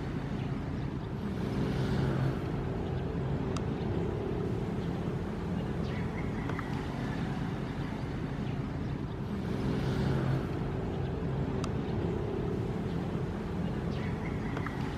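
Ocean waves: surf washing in with a swell of hiss about every eight seconds, over a steady low rumble.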